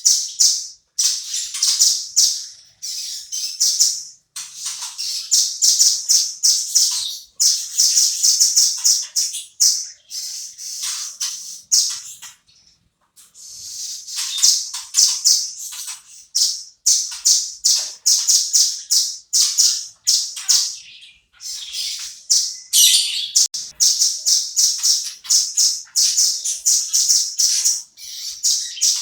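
Velvet-fronted nuthatch calling: rapid runs of sharp, high chirps in quick bursts, with a short break about twelve seconds in.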